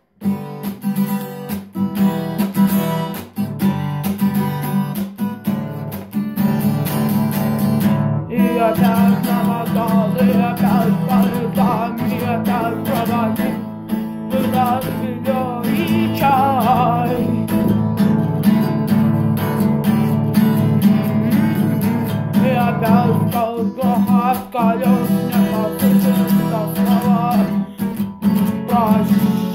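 Acoustic guitar strummed steadily after a brief pause at the start. A voice joins in singing about eight seconds in and carries on over the strumming.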